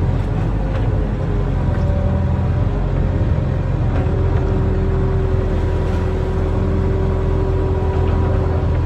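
Barge-mounted excavator's engine running steadily under work, with a steady whine that comes in about halfway through.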